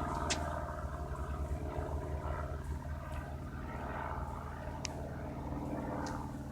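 Low-flying single-engine Cessna droning steadily, its propeller engine giving an even, unchanging hum.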